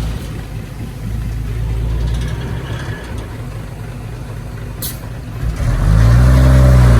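Heavy diesel earthmoving machine engine running with a low rumble, then revving up hard about five and a half seconds in and staying loudest near the end.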